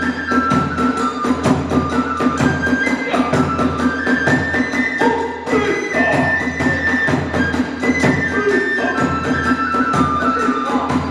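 Hiroshima kagura hayashi: drums and hand cymbals keeping a quick steady beat under a bamboo transverse-flute melody.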